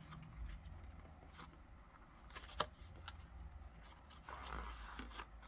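Faint handling of a paper tag and ribbon: light rustling with scattered small clicks and taps, one sharper tap about two and a half seconds in.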